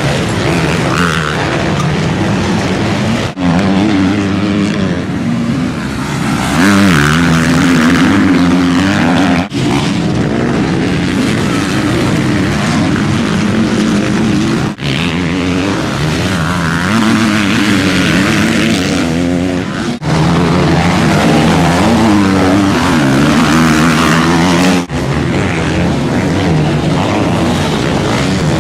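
Motocross bike engines revving hard, pitch rising and falling as the riders work the throttle and shift through gears. The sound cuts abruptly about every five seconds as one shot gives way to the next.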